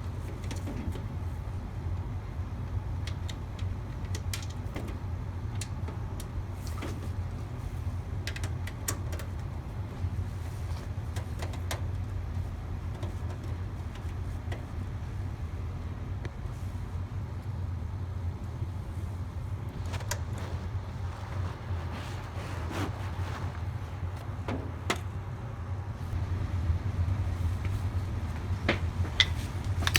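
Steady low mechanical hum, like a furnace running, with scattered light clicks and taps throughout and a little louder near the end.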